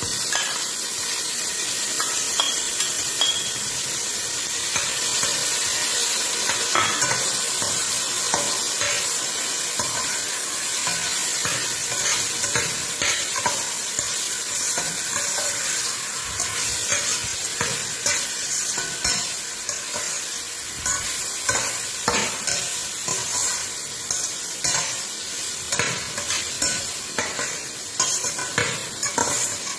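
Chicken wings sizzling as they fry in hot oil in a stainless steel pot, stirred so that the utensil scrapes and clicks against the pot; the clicks come more often in the second half.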